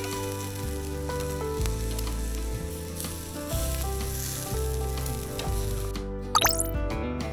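Food sizzling as it fries in a pan, with background music. About six seconds in, a quick rising glide sounds and the sizzle cuts out.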